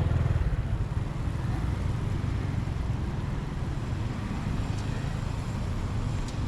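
Steady low engine rumble of a motor vehicle, with a stronger low hum that eases off about half a second in.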